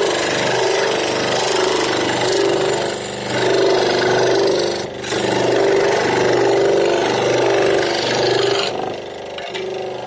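An electric power tool running with a steady motor tone as it cuts or sands wood, the load easing briefly a couple of times; about nine seconds in it gets quieter as it comes off the wood.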